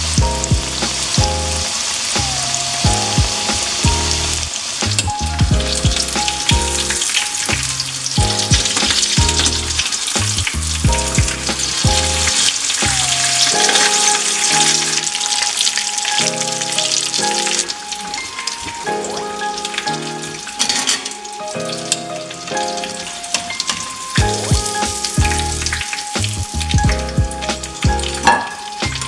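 Breaded fish fillets deep-frying in hot oil in a pan, a steady, dense sizzle, with background music playing over it.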